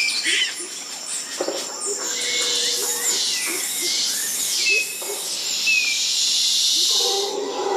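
Wild birds calling in forest: many short chirps and downward-sliding whistles over a steady high-pitched hiss. Near the end a lower, louder call begins.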